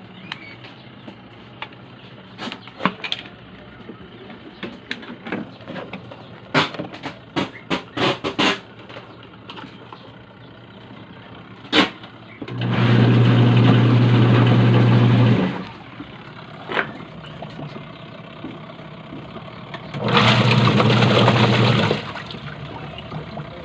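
Washing machine motor running in two bursts, about three seconds and then about two seconds, with a loud steady hum and churning noise, as the machine is test-run after its gearbox was replaced. Light clicks and knocks come before the first burst.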